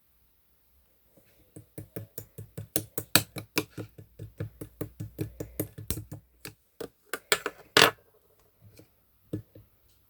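Clear slime being squeezed and worked by hand, making a rapid series of sticky clicks and pops, about three or four a second, with the loudest pop near eight seconds in, then a few scattered clicks.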